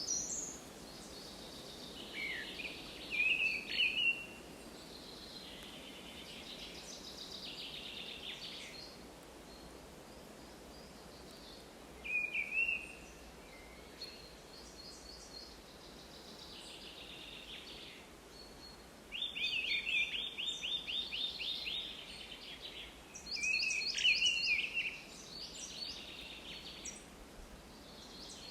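Several wild birds singing in short phrases of chirps and rapid trills, with more than one song overlapping. The songs sit over a faint, steady background hiss, and a fast, loud trill comes about two-thirds of the way through.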